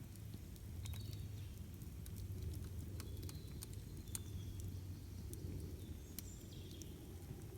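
Campfire crackling with irregular sharp pops over a low steady rumble, with a few short bird chirps in the background.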